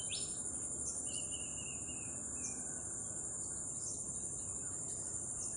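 Insects trilling steadily at a high pitch, with short bird chirps and calls scattered over it.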